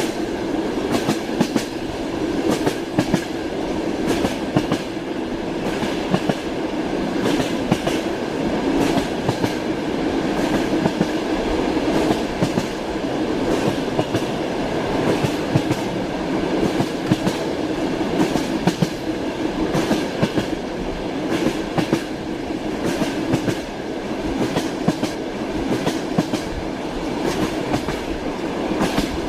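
Train wheels clattering over rail joints in the steady rumble of a moving railway carriage, with frequent sharp knocks.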